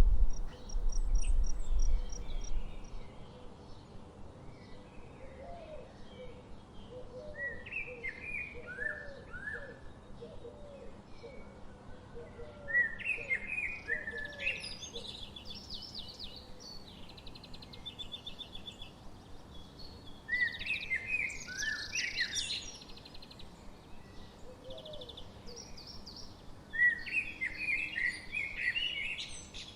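Wild birds singing and chirping in separate phrases of quick sliding notes and trills, several seconds apart, with softer low calls between them. A low rumble, the loudest sound, fills the first few seconds.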